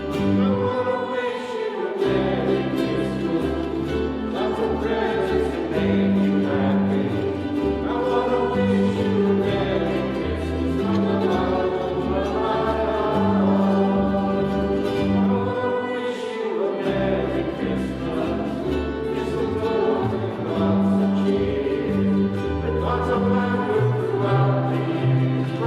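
Choir singing a Christmas carol with instrumental accompaniment, at a steady sing-along pace.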